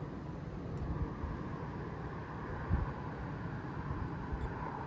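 Gusty wind buffeting the microphone: an uneven low rumble, with one stronger gust a little under three seconds in.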